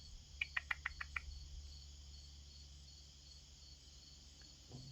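Crickets trilling steadily in a high, evenly pulsing drone. About half a second in, a quick run of about six short, sharp chirps cuts across it.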